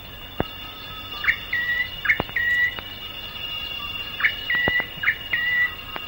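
A bird calling in repeated pairs of phrases, each a quick rising stroke followed by a short level whistle, sung twice over a few seconds. Under it runs the steady high drone of rainforest insects, and a few sharp clicks cut in.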